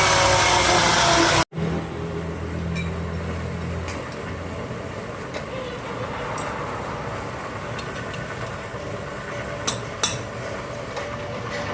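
A power tool runs loudly with a slowly falling whine for about a second and a half, then cuts off abruptly. After that comes quieter workshop background with a low hum for a couple of seconds, scattered light metal clicks, and two sharp knocks near the end.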